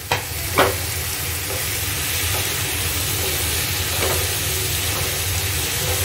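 Chopped onions and tomatoes sizzling in hot oil in a nonstick frying pan while a wooden spatula stirs them, with one sharp knock about half a second in and a few lighter knocks later.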